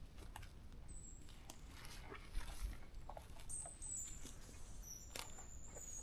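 Footsteps on a forest trail, irregular light steps. Several short, high-pitched bird chirps come in about a second in, again near the middle, and toward the end.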